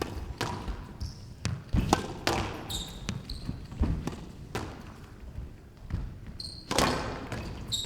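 Squash rally: the ball pops sharply off rackets and walls about every half second, with short high squeaks of court shoes in between.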